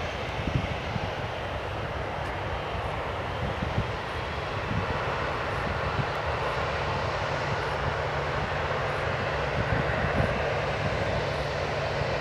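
Boeing 777-300ER's GE90 jet engines running at taxi power: a steady, even rush over a low rumble, with wind buffeting the microphone in gusts.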